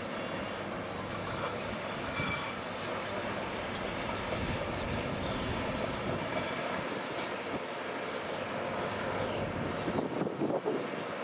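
TasRail freight train hauled by two TR class diesel locomotives passing at a distance: the steady sound of the locomotives running and the wagons rolling along the track.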